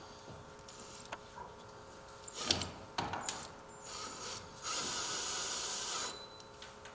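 A few handling clicks and knocks, then a power drill driving a self-tapping screw into aluminium, running steadily for about a second and a half near the end.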